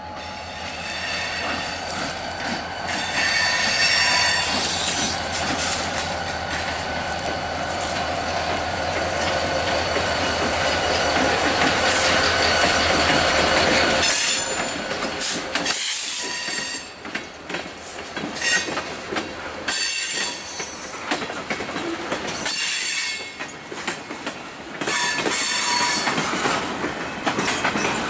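A diesel freight locomotive runs with a steady low drone as it approaches and passes close by, and a high-pitched wheel squeal comes a few seconds in. About halfway through, the engine sound gives way to the freight cars rolling by, with uneven surges of wheel clatter over the rail joints.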